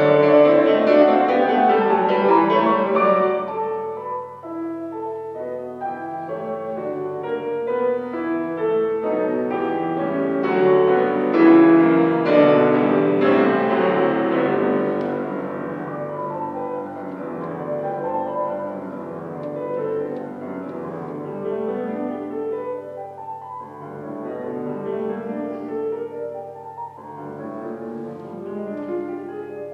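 Solo piano playing a dense, fast-moving classical passage: loud at first, softer after about four seconds, building again to a peak around twelve seconds, then quieter.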